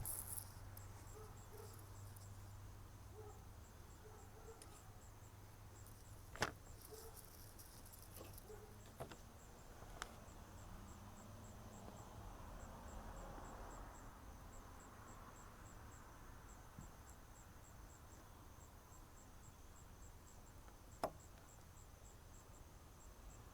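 Near silence with faint, evenly repeating insect chirping, high-pitched, and a few sharp clicks of faucet repair parts being handled, the loudest about 6 and 21 seconds in.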